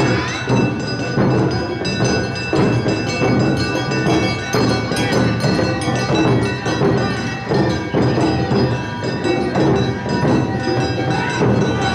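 Live Awa Odori narimono music: taiko drums and the struck kane hand gong keeping the dance beat under held melody tones from shinobue flutes and shamisen.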